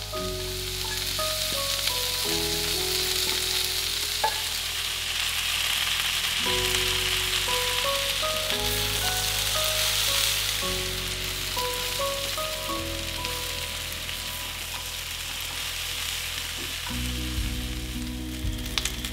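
Rice and vegetables sizzling as they are stir-fried in a wok, the sizzle strongest through the first half. Background music with sustained piano-like notes plays throughout.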